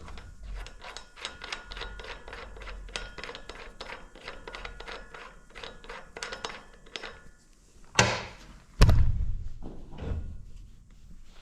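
A run of light, even clicks at about four a second, lasting some seven seconds, then two loud thunks close together near the end, the second ringing briefly.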